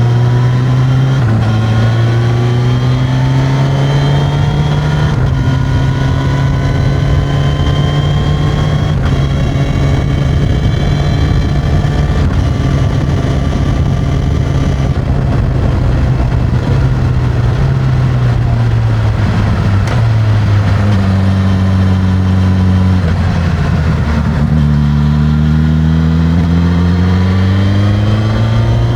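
Suzuki GSX-S1000's inline-four engine through its stock exhaust, pulling up through the gears with a rising pitch and several shifts. About two-thirds of the way through it eases off and the pitch falls, then it climbs again near the end.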